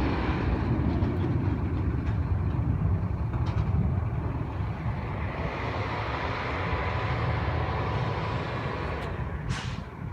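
Garbage truck engine running steadily in a low rumble, with a short hiss about nine and a half seconds in.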